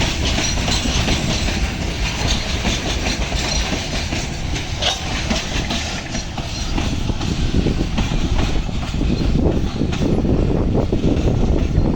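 Loaded ore freight train's wagons rolling past: a continuous heavy rumble with repeated clicks of wheels over the rail joints.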